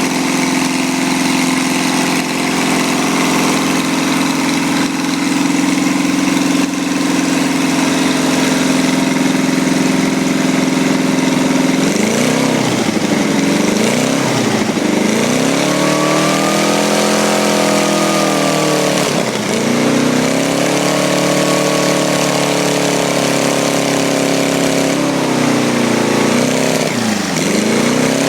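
Briggs & Stratton 6 hp single-cylinder engine, fitted with a carburetor from a pressure washer, running steadily at first. About twelve seconds in, its speed begins to swing down and back up over and over, each swing lasting a few seconds.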